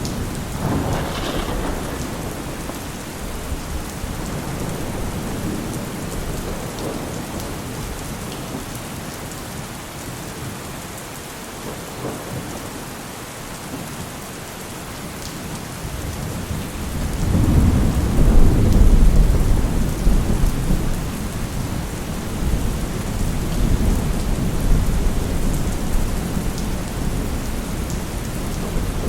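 Heavy rain falling steadily with a rolling thunderstorm. A short crack of thunder comes about a second in. Past the middle a deep rumble of thunder builds, peaks and slowly rolls away.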